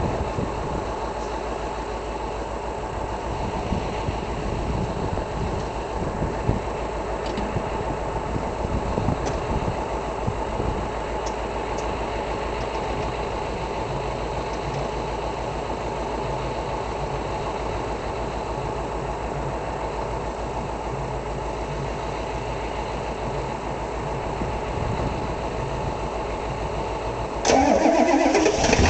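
Another engine idles steadily in the background. Near the end, a 1991 Ford F-250's 7.3 IDI V8 diesel is cold-started at about −5 °C: it cranks briefly and fires almost at once, the revs rising and then settling into a loud diesel clatter.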